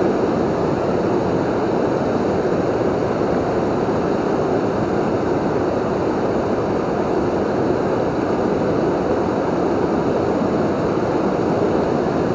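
River waterfall rushing steadily: an even, unbroken wash of falling water with no distinct events.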